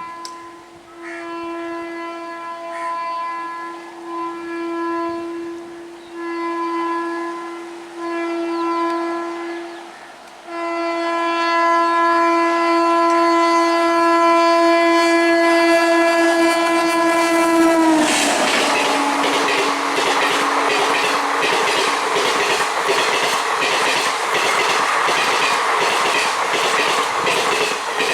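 Express train's locomotive horn sounding in several short blasts, then one long blast of about seven seconds that drops in pitch as the locomotive passes. The train then rushes through at speed, its wheels clattering rhythmically over the rail joints.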